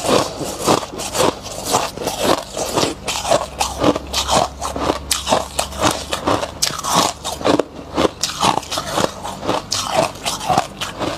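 Close-miked biting and chewing of compacted freezer frost: dense, irregular crunches, several a second.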